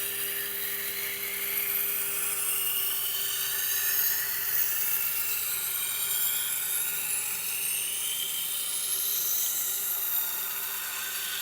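Chef's knife blade being ground against the turning wet stone of a Tormek T8 sharpener, reshaping a broken tip: a loud, steady grinding hiss that wavers a little, over the steady hum of the machine's motor.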